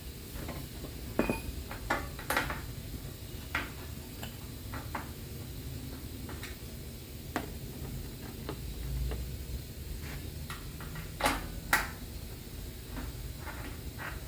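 Irregular light clinks and knocks of hand tools and metal parts being handled during car body work, with two sharper clanks about eleven seconds in, over a low steady hum.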